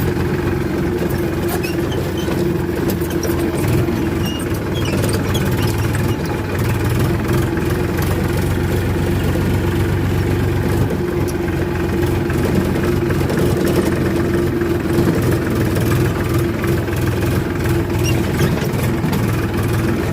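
Powertrac Euro 50 tractor's diesel engine running steadily at an even speed.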